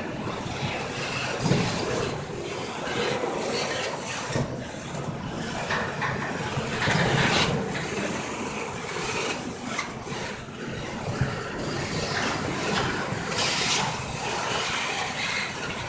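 Intermodal freight train cars rolling past: a steady rushing of wheels on rail, broken by irregular knocks.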